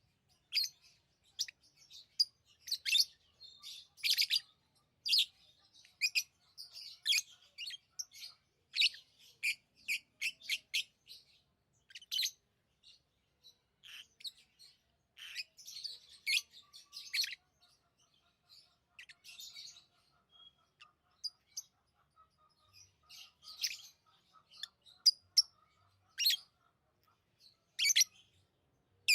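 Pet lovebirds chirping: a long run of short, shrill chirps and calls, coming thick and fast for the first half and more sparsely later on.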